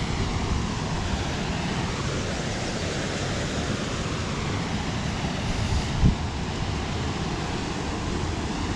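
Steady rushing of a waterfall, with low wind buffeting on the microphone and a brief bump about six seconds in.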